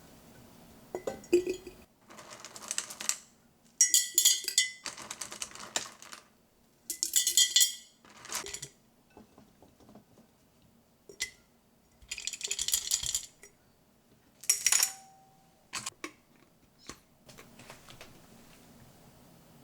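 Kitchen handling sounds: sharp clinks of glass and utensils, with several separate hissing bursts about a second long at irregular intervals.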